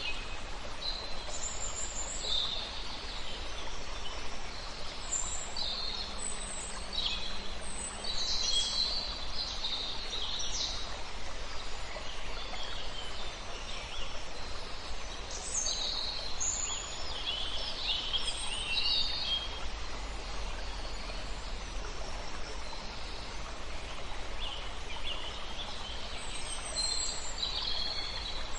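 Several songbirds chirping and trilling in overlapping clusters, quieter for a few seconds around the middle, over a steady rush of river water.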